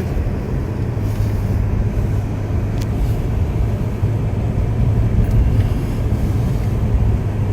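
Steady road and engine rumble heard from inside a moving car's cabin, with a single light click about three seconds in.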